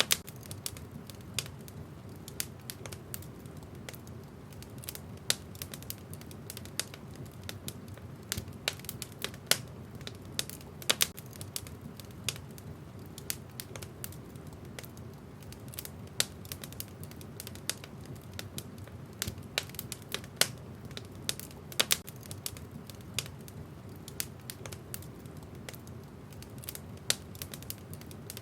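Wood fire crackling in a fireplace: irregular sharp pops and snaps of burning logs, several a second with some louder cracks, over a steady low rumble of the flames.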